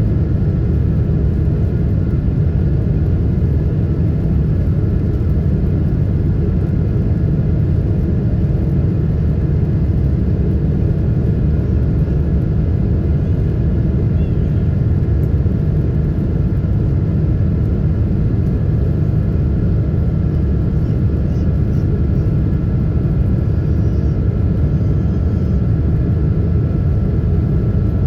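Cabin noise aboard a Boeing 777-300 in flight: a steady, loud roar of the engines and rushing air, with faint steady tones above it.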